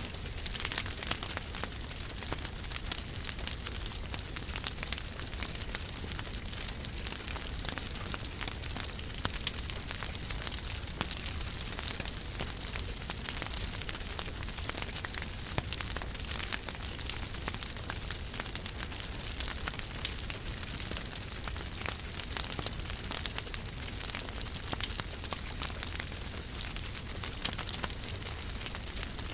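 Wood fire crackling in a fireplace: a steady hiss with many small snaps and pops, a few sharper pops standing out, over a low rumble.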